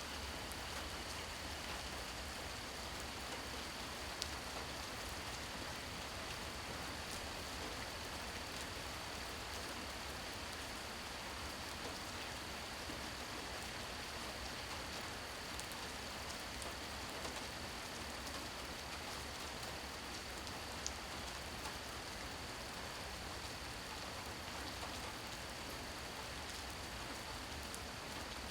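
Steady rain falling, an even hiss with a few sharper drop ticks. A thin, steady high tone runs beneath it.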